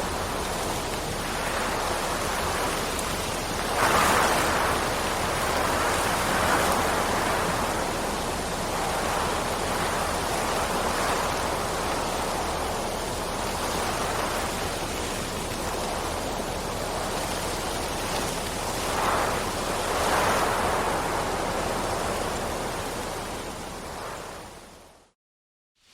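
Steady rain hiss, swelling louder twice, then fading out to a moment of silence near the end.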